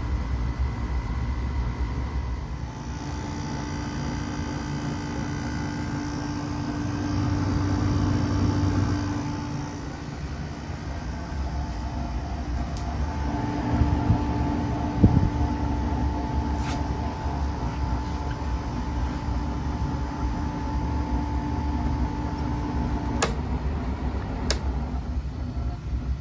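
A 2012 Frigidaire 5,000 BTU window air conditioner running with a steady hum whose tones shift and change over time. Near the end come two sharp clicks about a second and a half apart, and the main humming tones cut off at the first click.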